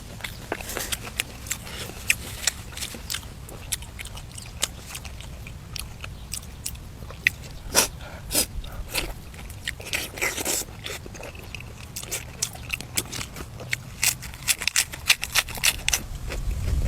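Close-up eating sounds: a person biting and chewing food, with irregular crisp crunches and mouth clicks.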